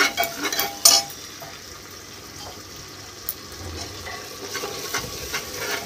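Masala paste frying in oil on a low flame in an aluminium pressure cooker: a steady soft sizzle, with a ladle scraping and clinking against the pot in the first second and a few faint clicks later.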